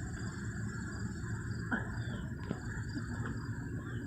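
Insect chorus: a steady, high-pitched pulsing trill, with a few faint short calls from distant birds now and then.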